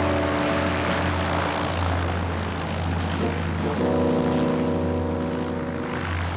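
Steady drone of a small propeller aeroplane's engine in flight. Sustained music chords sound over it near the start and again in the second half.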